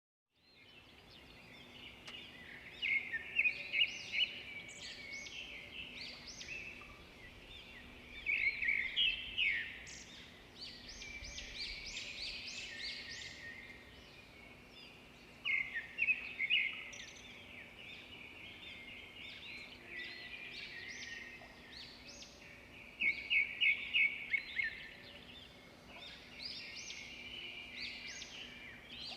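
Songbirds chirping and singing, with several louder bursts of rapid, repeated chirps over a faint outdoor background. The sound starts just after the beginning.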